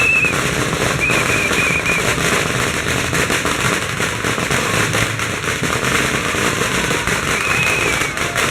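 A string of firecrackers going off in a rapid, unbroken crackle of bangs, with a few short high tones over it near the start and end.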